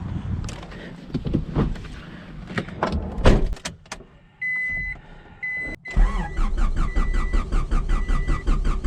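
A few clicks and knocks, then an electronic chime beeps twice. About six seconds in, the new starter motor begins cranking the freshly rebuilt Honda H22A4 engine in an even, rapid rhythm.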